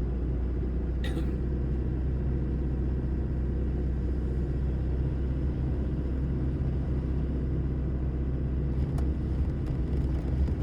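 Steady low rumble of a vehicle being driven, engine and road noise heard from inside the cabin, with one sharp click about a second in and a few faint ticks near the end.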